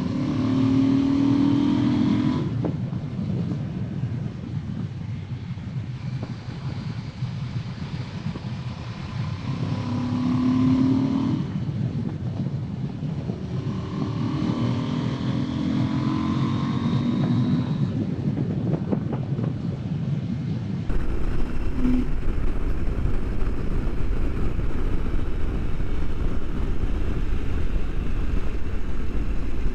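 Husqvarna Norden 901's parallel-twin engine revving up under acceleration several times, its note rising as it pulls out of corners, over constant wind and road rush. About two-thirds of the way through, the sound changes abruptly to a steadier, heavier wind rush.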